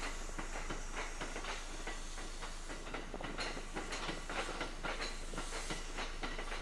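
Kintetsu red-and-white commuter train rolling slowly over the depot tracks, its wheels clicking and clattering irregularly over rail joints and points.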